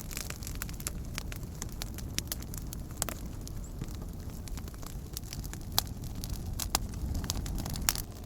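Wood campfire burning with a steady low rumble of flames and scattered sharp crackles and pops, a few louder snaps near the end.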